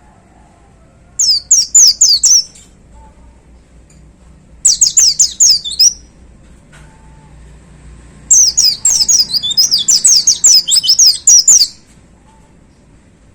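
White-eye (pleci) singing in three loud bursts of rapid, high, downward-sweeping notes, the last and longest running for about three seconds.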